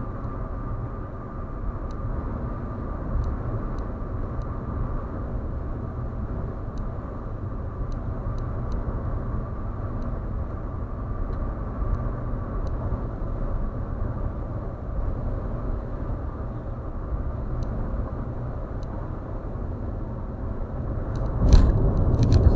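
Steady road and tyre rumble of a vehicle driving at speed on an expressway. Near the end it swells into a louder rush with a few sharp clicks.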